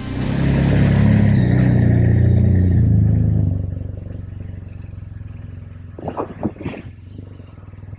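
BMW R 1250 RT boxer-twin motorcycle engine running loudly for about three seconds, then fading away. A few short knocks follow near the end.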